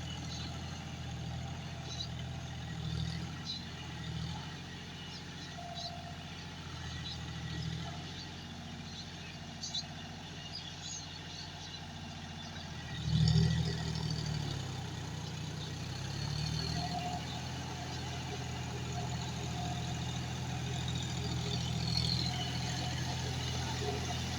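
John Deere 5105 tractor's three-cylinder diesel engine running steadily, briefly revving up louder about halfway through.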